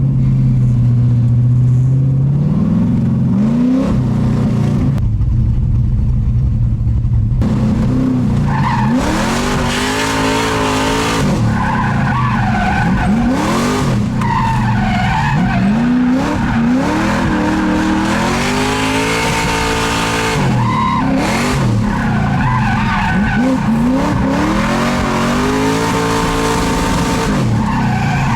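Drift car's engine held fairly steady at first, then from about eight seconds in revving up and dropping again and again while the tyres squeal through slides.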